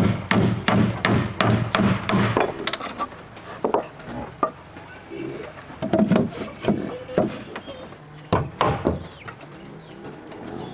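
Repeated blows on wood, about three a second for the first two seconds or so, then a few scattered knocks.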